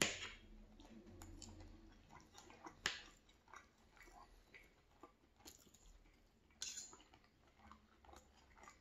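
Close-miked chewing and mouth noises of someone eating breakfast food, with a few sharp clicks and scrapes of a metal fork against a ceramic plate: one right at the start, one near 3 seconds, and two more past the middle.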